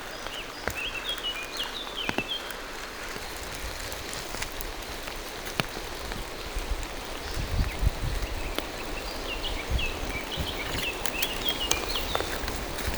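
Steady rain falling in a forest, with scattered drops ticking close by. A songbird sings short chirping phrases near the start and again toward the end, and a few low thumps come about halfway through.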